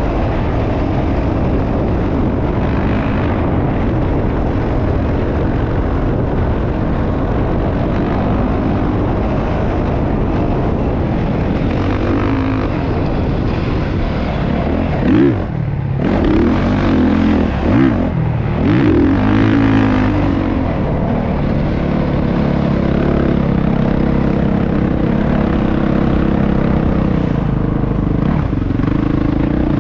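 Motocross dirt bike engine running steadily, revving up and down several times about halfway through.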